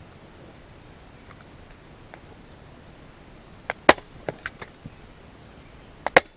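Staple gun firing staples through a leather seat cover into a plastic seat base. There is a loud sharp snap about four seconds in, followed by a few lighter clicks, then two more sharp snaps close together near the end.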